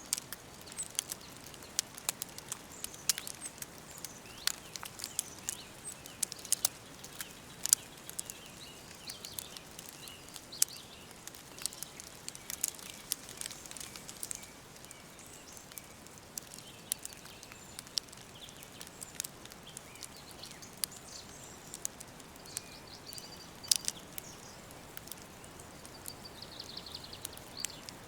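Wood fire crackling with frequent irregular sharp pops, with faint bird chirps in the background.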